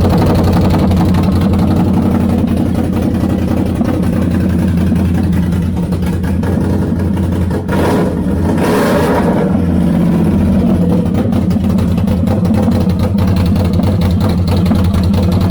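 2021 Can-Am Outlander 850's V-twin engine running loud with the muffler removed, exhausting straight out of the header pipe. It idles steadily, with one short rev a little past the middle.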